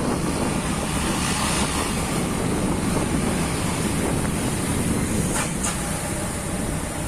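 A moving truck: engine and road noise with wind on the microphone, steady throughout, with two short clicks about five and a half seconds in.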